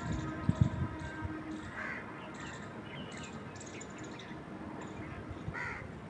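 Birds calling outdoors: two louder calls, one about two seconds in and one near the end, over faint high chirping. Low thumps of wind on the microphone in the first second.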